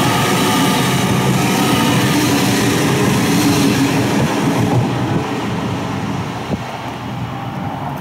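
Great Western Railway Class 800-series Intercity Express Train passing close by, a loud rush of wheel and rail noise. The end of the train goes by about halfway through, and the sound then falls away and dulls.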